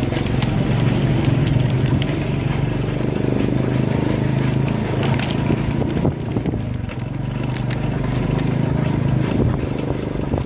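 Motorcycle engine of a bentor (motorized tricycle rickshaw) running steadily while under way, with occasional short clicks and rattles.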